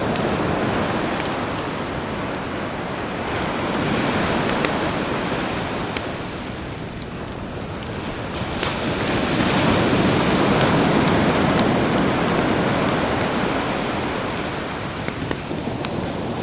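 Sea waves washing in and receding in slow swells, with the small pops and crackles of a campfire scattered over them.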